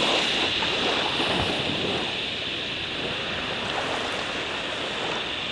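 Steady outdoor background: an even rushing noise with a constant high-pitched drone over it, and no distinct events.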